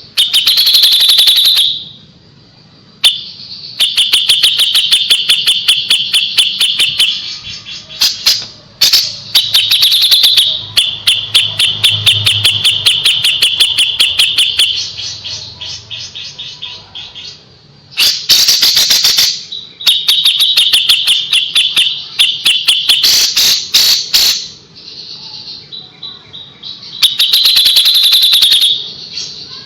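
Kapas tembak bulbul singing: loud bursts of rapid, sharp repeated notes, each burst lasting one to three seconds, with short pauses between them.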